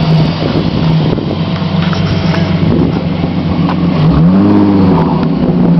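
1999 Chrysler 300M's 3.5-litre V6 running through a Flowmaster exhaust, idling steadily, with one short rev about four seconds in that rises and drops back to idle.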